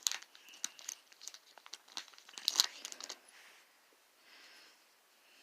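Painter's tape being peeled off cardboard and crumpled: a run of crinkling and small sharp crackles, the loudest about two and a half seconds in, then faint rustling for the last couple of seconds.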